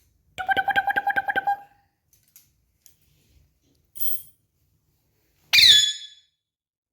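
Pet parrot calls. A rapid chattering run of about a dozen quick notes comes first, then a short high chirp about four seconds in, and near the end a loud harsh squawk that falls in pitch.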